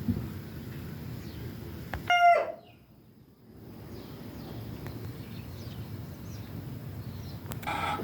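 A chicken gives one short, loud call about two seconds in, its pitch dropping at the end. Faint bird chirps sound over steady outdoor background noise, and more chicken calls start near the end.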